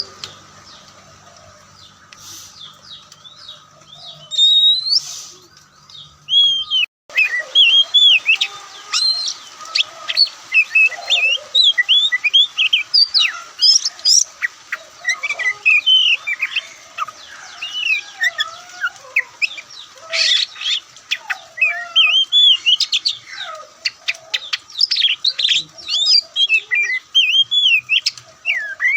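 Oriental magpie-robin singing: a few scattered whistles at first, then, after a brief break about seven seconds in, a dense run of loud, varied, rapid whistled phrases.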